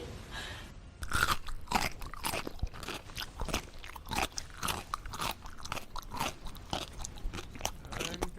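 An animal crunching and chewing something hard: a rapid, irregular run of crunches, several a second, starting about a second in.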